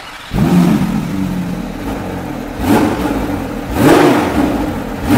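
Porsche 911 GT3's 4.0-litre naturally aspirated flat-six revved in short throttle blips, rising and falling in pitch about four times, the loudest near the end.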